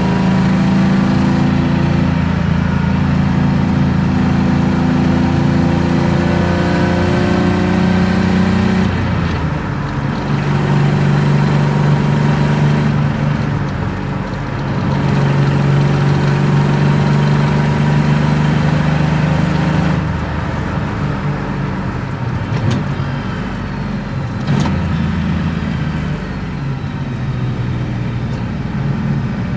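BMW M50B25 2.5-litre straight-six with aftermarket headers and exhaust, driven under steady load. Its note breaks briefly twice near the middle as the throttle is lifted. In the last third it runs lighter, with more road noise and two short clicks.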